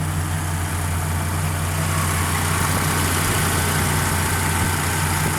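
Ford 5.0 V8 (Explorer engine with GT40P heads) idling steadily through shorty headers, an H-pipe and Magnaflow mufflers. The exhaust note is mild and the engine is more pronounced than the exhaust. The owner says the idle still has a quirk he has not figured out.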